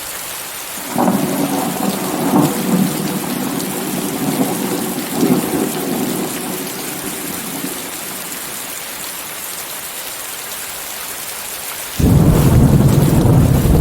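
Steady rain hissing, with thunder: a long roll starts about a second in and dies away by about eight seconds, then a louder, deeper rumble cuts in sharply near the end.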